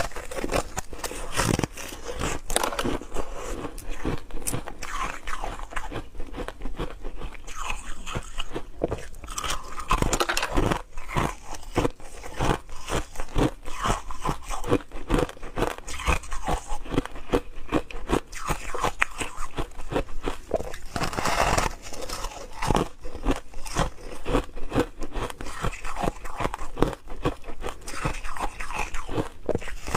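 Ice being bitten and chewed close to the microphone: continuous, irregular crunching and cracking of ice in the mouth.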